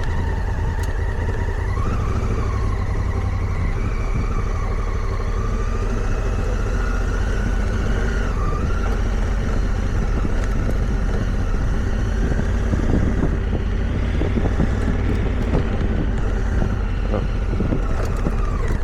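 Motorcycle engine running while riding a dirt trail, its pitch rising and falling with the throttle, over a steady low rumble.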